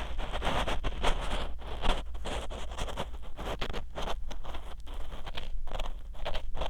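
Ear pick scraping and rubbing in the ear of a 3Dio binaural dummy-head microphone, an unbroken run of close, gritty scratching strokes and small clicks several times a second.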